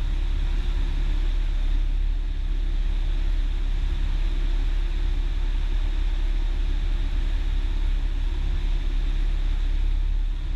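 Cessna 172's piston engine and propeller droning steadily in the cockpit on final approach.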